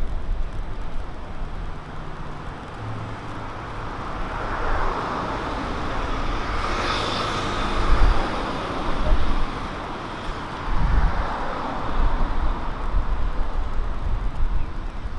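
A car passing along the street: its tyre and engine noise rises, peaks about halfway through and fades away, over a low steady traffic rumble.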